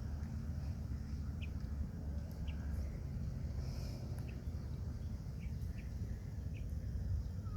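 Scattered short, high bird chirps, about one or two a second, over a steady low rumble.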